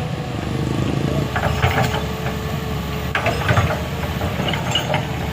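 A vehicle engine running steadily, with scattered metallic clanks and creaks over it.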